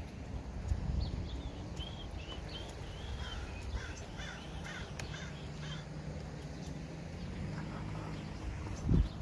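A bird calling in a quick series of short, repeated calls from about a second and a half to five seconds in, over a steady low wind rumble on the microphone. A brief low thump comes near the end.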